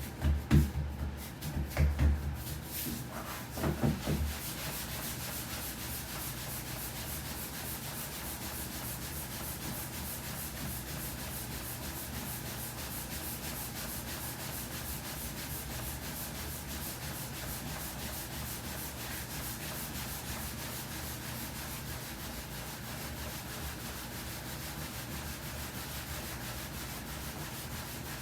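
Soba dough being rolled out by hand on a wooden board: a steady, dry rubbing of dough against wood. A few dull thumps come in the first few seconds before the rubbing settles in.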